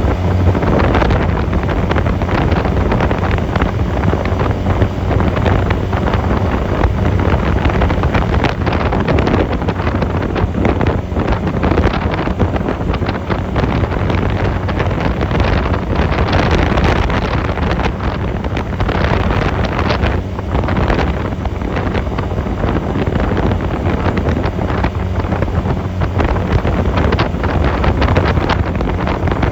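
Honda 250cc motorcycle engine running at riding speed, with heavy wind rushing over the microphone.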